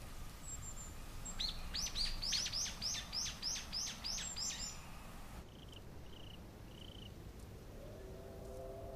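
A bird calling: a quick run of about a dozen sharp, downward-sweeping chirps, followed by a few softer short chirps. Steady held tones come in near the end.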